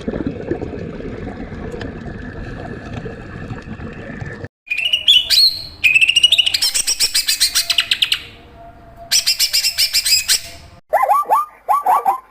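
Bird calls in quick succession: rising whistles and fast chirping trills, then a run of short repeated calls near the end. For the first four seconds or so, before the birds, there is a rough, noisy sound with no clear pitch.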